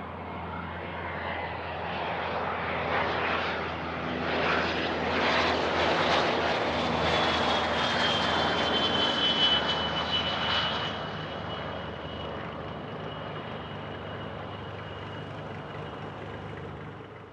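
Private jet passing by on the runway, its engine noise swelling to a peak about halfway through and then fading, with a high whine that falls slightly in pitch as it goes past.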